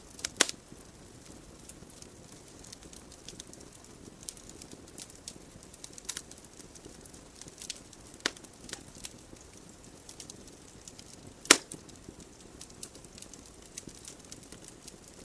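Wood fire burning in a fireplace: irregular crackles and pops from the logs over a soft hiss, with a few sharper pops, the loudest about eleven seconds in.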